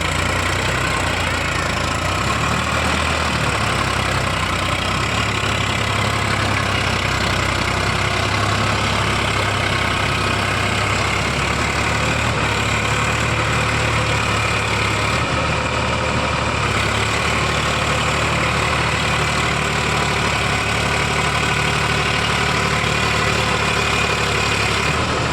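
Sonalika tractor's diesel engine running steadily at an even pitch.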